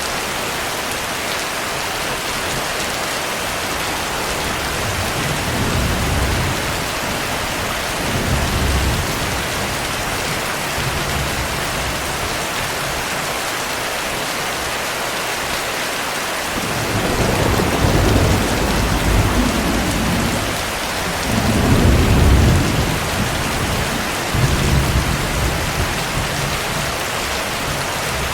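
Heavy rain falling steadily, with low rolls of thunder rumbling several times: briefly about five and eight seconds in, then a longer stretch of rolling thunder past the middle.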